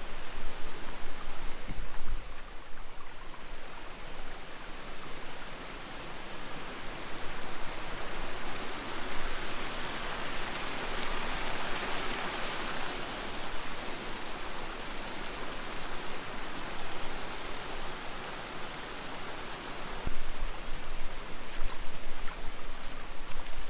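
Rushing water of a valley stream, a steady rush that swells in the middle and then eases off, with low rumbling near the start and again near the end.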